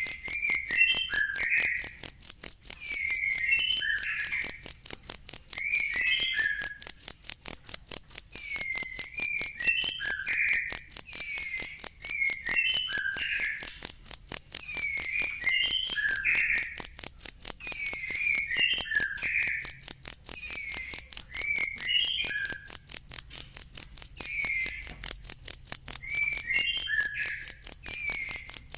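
Cricket chirping steadily in rapid, evenly spaced pulses, several a second, high in pitch. A fainter, lower warbling call recurs every second or two underneath.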